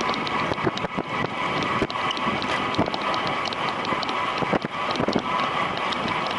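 Road bicycle ridden at race speed: wind rushing over the microphone with a steady whine, light ticking several times a second, and a few knocks from the road.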